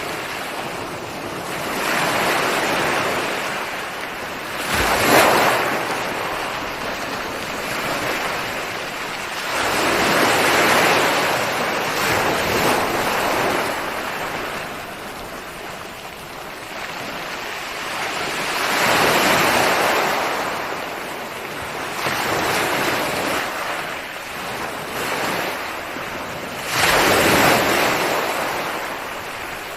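Ocean waves breaking and washing in, the surf noise swelling and ebbing every few seconds, with stronger crashes about five seconds in and again near the end.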